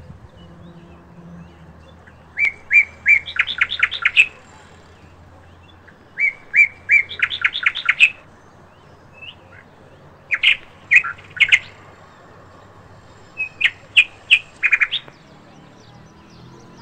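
A songbird singing the same short phrase four times, about every four seconds: a few spaced chirps, then a quick run of louder notes.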